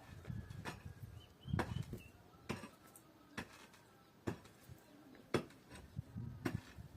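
A hand tool striking over and over, about one blow a second, with a few faint bird chirps early on.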